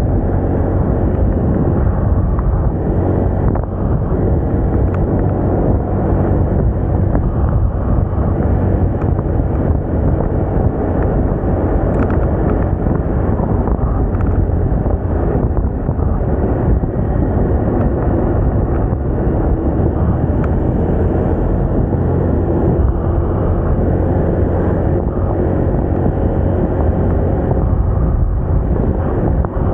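Moda Moca 110 scooter's engine running steadily while riding, with wind rushing over the microphone.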